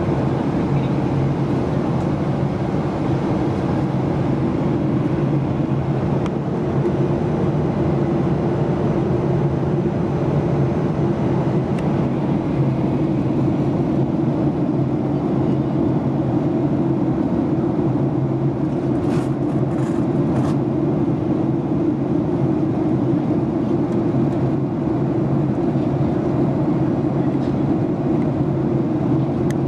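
Jet airliner cabin noise during the descent: the steady hum and rush of the engines and the airflow over the fuselage, with a few faint clicks about two-thirds of the way through.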